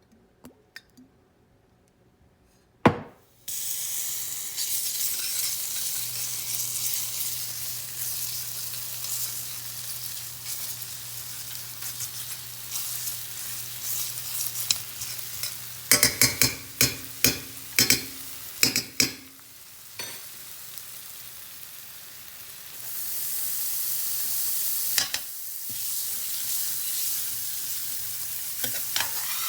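Food sizzling as it fries in a pan. The sizzle starts right after a sharp knock about three seconds in, and a utensil knocks against the pan in a quick run of strikes around the middle as the food is stirred.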